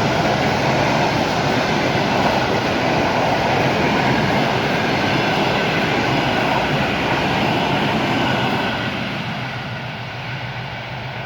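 Train running past on the line: a loud, steady rush of wheel and rail noise that begins to fade away about eight and a half seconds in as the train moves off.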